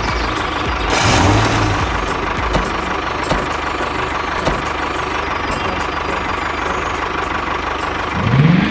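Small engine of a DIY mini tractor running steadily, rising in pitch near the end.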